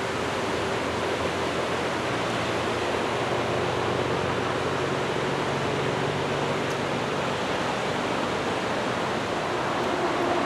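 Steady roar of rough surf breaking along a sandy beach, waves heavy ahead of an approaching typhoon.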